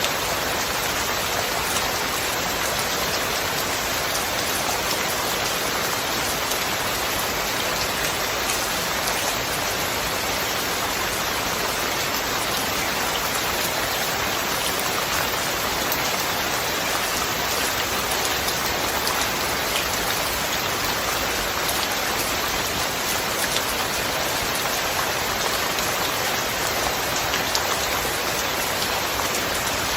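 Steady rain falling, an even hiss with fine drop patter, no thunder.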